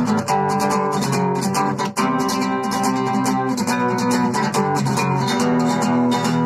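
Acoustic guitar strumming chords in a steady rhythm, with a brief break in the strumming about two seconds in.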